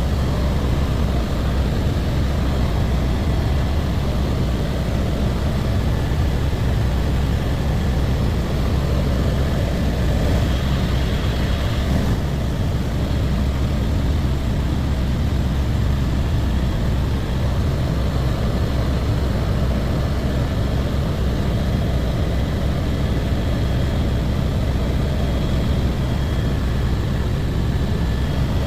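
Helicopter engine and rotors running steadily, a loud, even noise with most of its weight in the low end.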